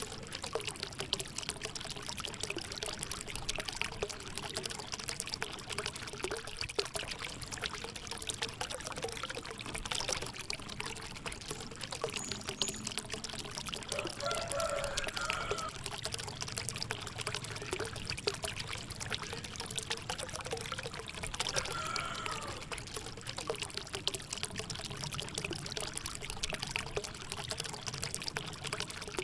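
A thin stream of water pouring and trickling steadily into a small pool, as in a miniature diorama's water feature.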